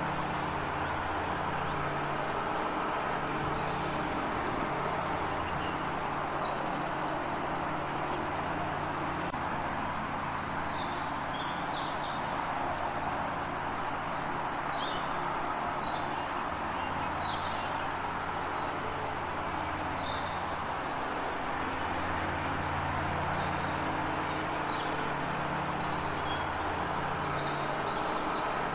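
Small birds chirping in short, scattered calls over a steady background rumble and low hum.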